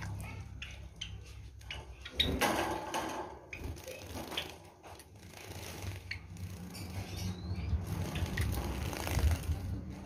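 Scattered short clicks and taps as Java sparrows land on and hop along the perches and wire of their cage, over a steady low rumble.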